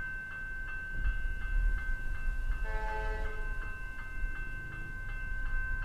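Level crossing warning bells ringing, with fast repeated strikes about three a second. A short horn blast from a suburban electric train sounds about halfway through, over a low rumble.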